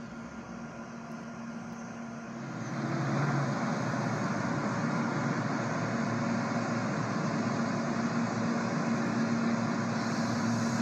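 A train passing by, a steady running noise that swells about two and a half seconds in and then holds.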